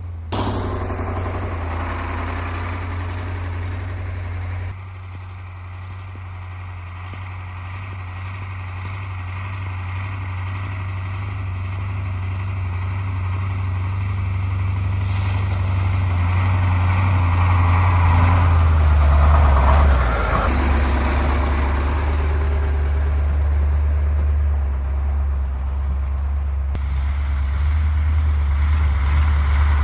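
KAMAZ 4310 6x6 truck's V8 diesel engine running under load while driving, a deep steady drone that grows gradually louder. The engine note changes about twenty seconds in.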